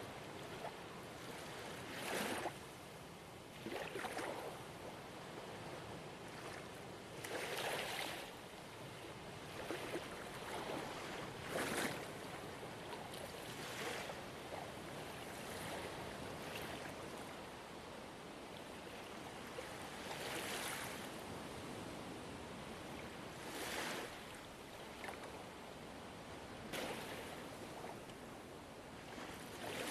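Gentle ocean waves: a steady wash of water with small waves splashing or breaking every few seconds at uneven intervals.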